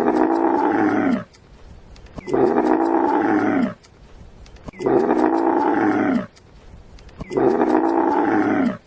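An animal's long, pitched call repeated four times at even spacing, each about a second and a half long and dropping in pitch at the end.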